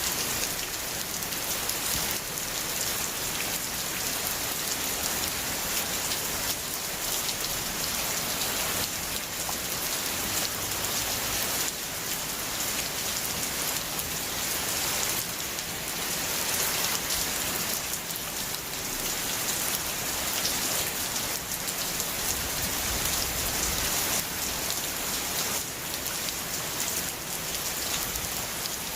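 Steady heavy rain falling on a hard surface, a dense hiss with fine crackling drops.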